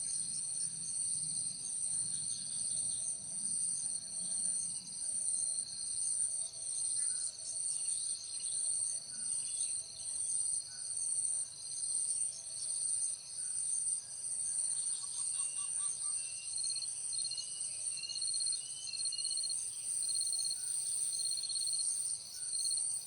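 Chorus of insects, high shrill trills that swell and fade about once a second, with a few faint short chirps partway through.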